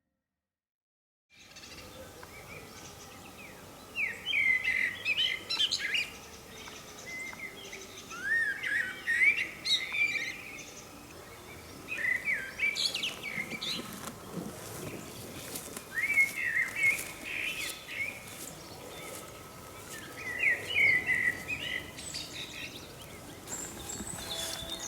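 Songbird song in a forest: short warbling phrases repeated roughly every four seconds over a faint steady background hiss, beginning after about a second of silence.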